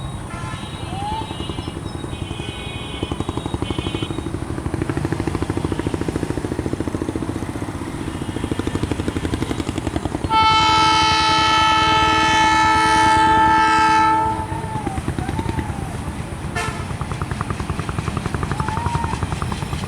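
Diesel locomotive hauling a long freight train, its engine throbbing steadily. About ten seconds in, the locomotive's air horn gives one loud, steady blast lasting about four seconds.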